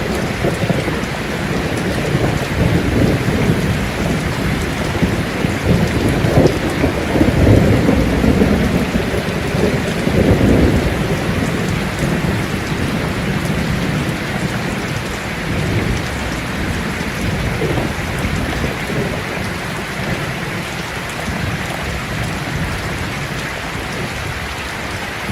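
Steady rain falling, with a low rolling rumble of thunder that swells in the first half and slowly dies away.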